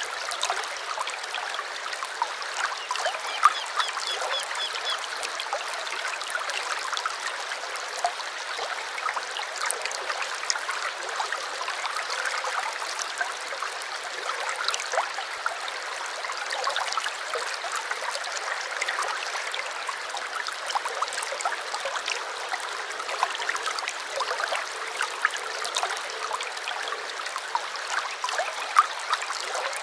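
Small stream babbling and trickling steadily over stones, with many little splashes. A bird gives a short, rapid, high trill about three seconds in.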